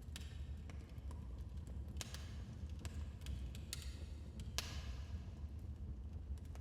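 Wood fire in a fireplace crackling: irregular sharp pops and snaps over a steady low rumble of the flames, with one louder pop about two-thirds of the way through.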